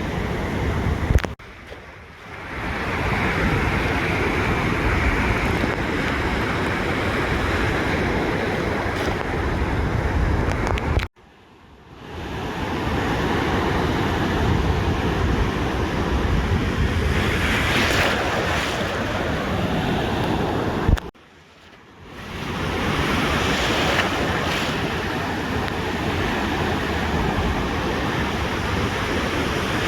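Ocean surf washing onto a beach, a steady wash with waves swelling and easing, and a low rumble of wind on the microphone. The sound drops out abruptly three times, about ten seconds apart, each time for about a second, before fading back in.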